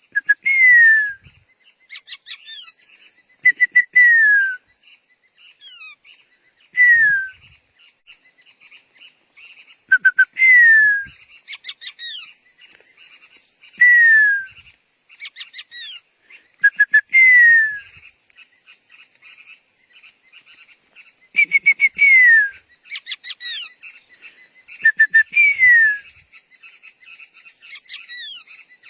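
A bird calls over and over, about every three to four seconds. Each call is one or two short notes followed by a clear whistle that slides downward for about a second. Fainter, quicker chirps come in between.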